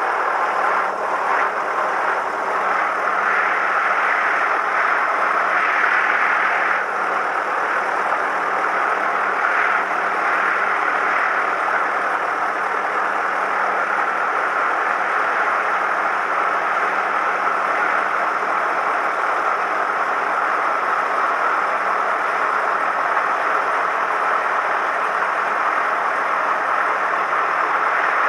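Cessna 172M's four-cylinder Lycoming engine and propeller running steadily, an even drone with a steady low hum beneath it.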